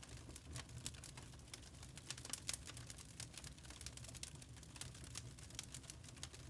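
Burning charcoal crackling: many small, irregular pops and ticks over a low, steady rumble, with a cluster of sharper pops about two and a half seconds in.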